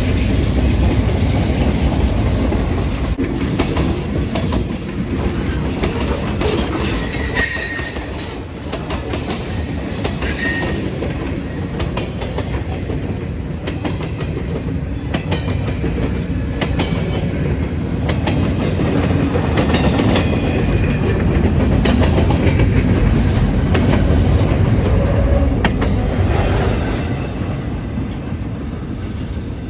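Freight train cars rolling past, wheels clacking steadily over rail joints, with a few brief high-pitched wheel squeals in the first half.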